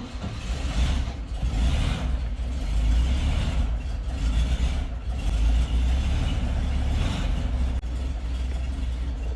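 Volkswagen Bus engine running just after a cold start, a steady low rumble that rises and falls a little in loudness.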